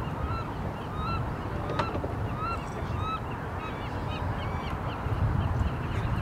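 Birds calling repeatedly in short, hooked notes over a low steady rumble, with one sharp click a little under two seconds in.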